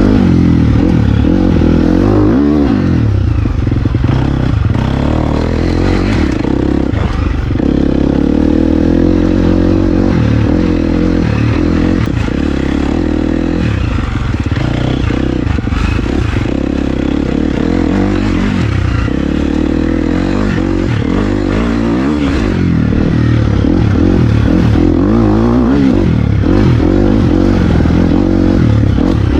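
Dirt bike engine running under load while riding a trail, its pitch rising and falling with the throttle, with clattering and scraping mixed in.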